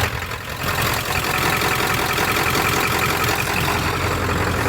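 A 1996 Ford F350's 7.3 Powerstroke turbo-diesel V8 idling steadily.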